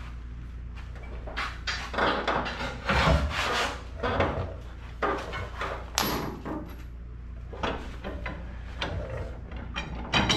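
Irregular clunks and scrapes of hand tools working on a car's front suspension while a stubborn ball joint is forced to turn, with one sharp, ringing metal clank about six seconds in.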